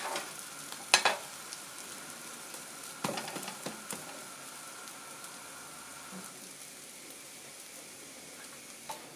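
French toast slices sizzling steadily in margarine in a non-stick frying pan. A metal spatula clicks and scrapes against the pan a few times in the first four seconds, then only the sizzle goes on.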